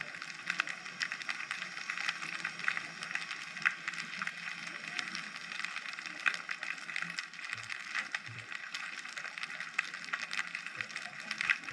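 Underwater ambience recorded through a GoPro housing: a steady dense crackle of tiny clicks, with a couple of soft low blips about eight seconds in.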